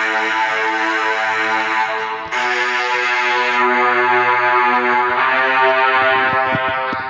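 Electronic keyboard holding sustained chords that change about every two to three seconds. Near the end the chord fades out and a scatter of sharp crackles and pops comes in.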